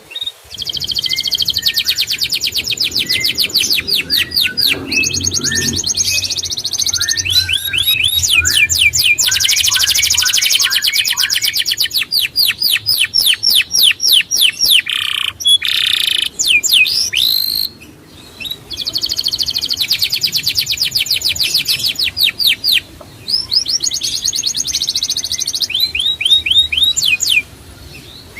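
A songbird singing long, fast trills of rapidly repeated high notes, one phrase after another, with brief pauses between phrases.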